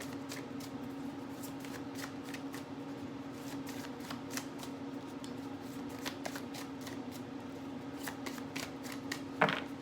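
Tarot cards being shuffled and handled by hand: a steady run of soft, quick card clicks and flicks, with one louder card noise near the end.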